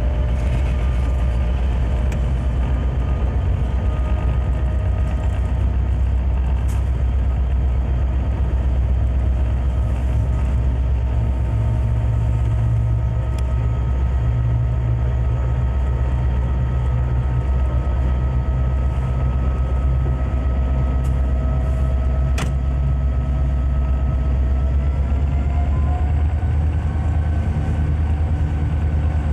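Conrail diesel-electric freight locomotive running steadily, a heavy low engine drone with a steady whine above it that rises slightly near the end.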